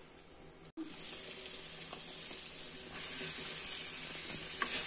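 Raw chicken pieces sizzling in hot oil and ground masala in a clay pot. The sizzle starts abruptly a little under a second in and grows louder about three seconds in.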